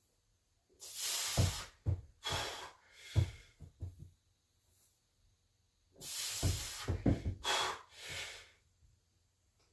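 A weightlifter's heavy, forceful breathing: hissing exhales in two groups, about three in the first few seconds and three more from about six seconds in.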